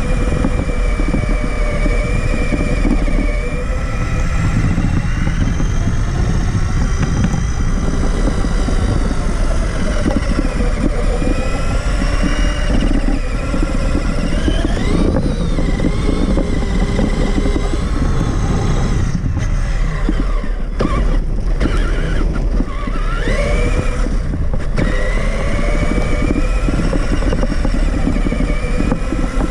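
Onboard sound of a Traxxas Summit 1/10-scale electric RC truck driving: the motor and gearbox whine rises and falls in pitch with the throttle over a steady low rumble. In the last third the whine drops out briefly several times as the throttle is let off and picked up again.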